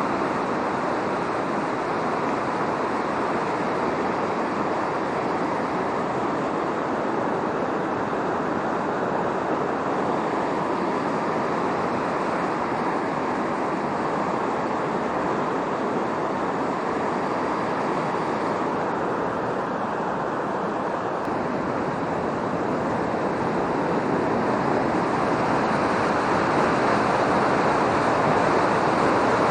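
A river in typhoon flood, its high, fast water giving a steady loud rush that swells a little louder near the end.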